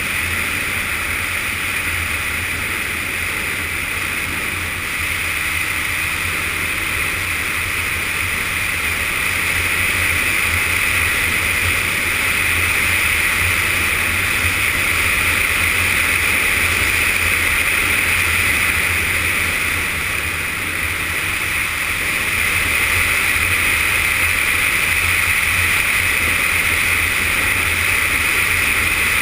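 Yamaha FZS600 Fazer inline-four motorcycle riding at a steady speed: engine drone under a steady rush of wind noise, dipping slightly twice.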